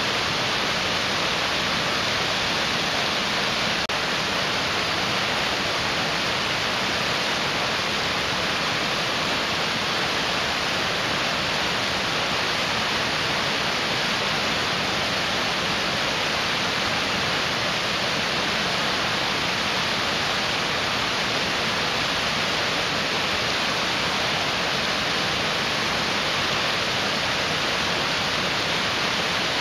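Mountain stream rushing, a steady even hiss of fast water over rocks with no breaks.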